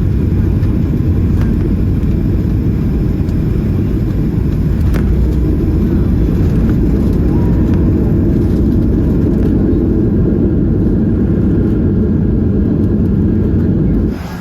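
Steady low rumble of a Boeing 737-800's engines and airflow heard from inside the cabin, cutting off abruptly near the end.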